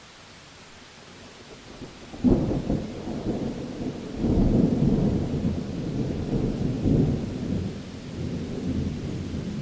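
Steady rain hiss, then about two seconds in a sudden clap of thunder that breaks into a long, low rolling rumble, swelling again twice as it rolls on.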